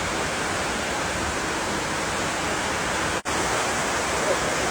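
Heavy rain pouring down in a dense, steady hiss. It cuts out for an instant about three seconds in.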